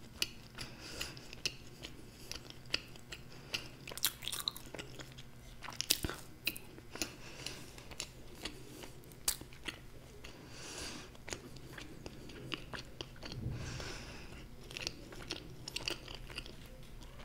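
Close-miked chewing of a Lotte Choco Pie, a marshmallow-filled chocolate cake. It is heard as soft, wet mouth clicks and smacks scattered irregularly throughout.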